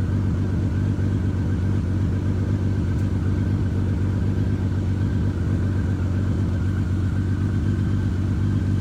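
Honda Valkyrie motorcycle's flat-six engine idling steadily with an even, low hum, while stopped at a traffic light.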